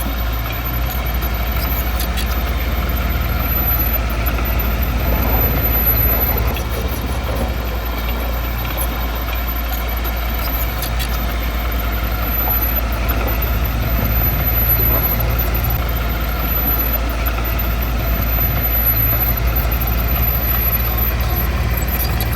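Heavy diesel engine of earthmoving equipment running steadily at a low, even pitch, with no change in load.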